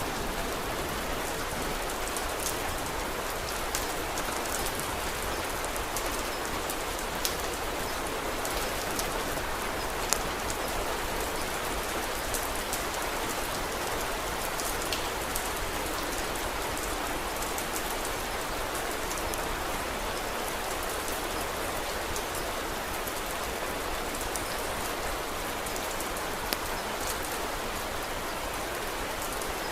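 Steady rain with scattered sharp pops and crackles from a wood fire, a few of them standing out loudly.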